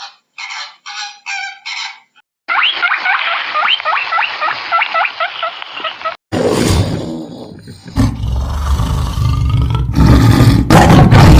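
A string of different animal calls, with an abrupt change between each: a few short clucking calls, then a rapid run of short rising chirping calls at about three a second, then a loud, rough, roar-like sound that fills the second half.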